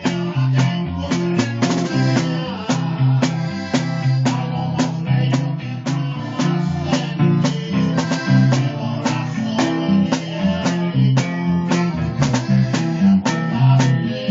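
Norteño band music: an instrumental passage with plucked strings, bass and a drum kit keeping a steady beat.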